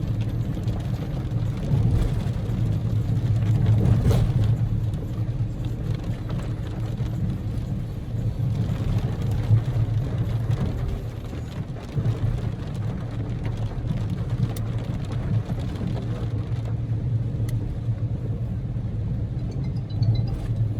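Steady in-cabin driving noise of a Daihatsu Move L150S, its engine and tyre hum running as it travels along the road.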